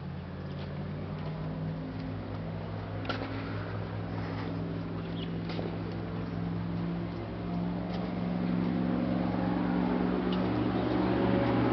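A motor vehicle's engine running steadily, its pitch shifting a couple of times and growing louder through the second half as it draws nearer.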